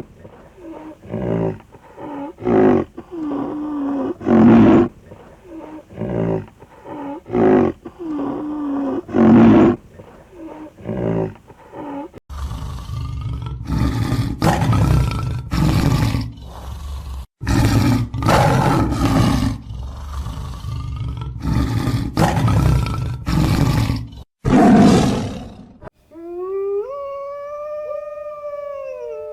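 A big cat roaring in a run of short, repeated calls, then, about halfway through, a second bout of louder, rougher roars. Near the end a long, wavering howl begins.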